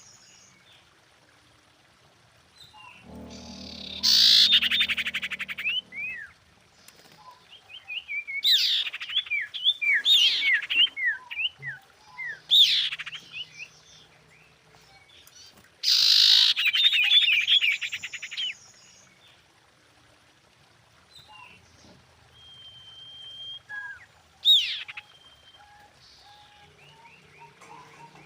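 Common iora calling: rapid trilled chirping phrases, with runs of quick falling whistled notes between them and a long steady whistle near the end. The recording presents these as a female's calls to a male.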